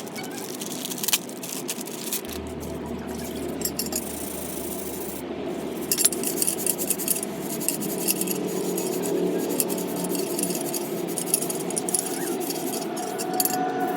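Light metallic clinks and rubbing as a stainless steel motorcycle muffler is handled and polished by hand, with many short, irregular clicks throughout.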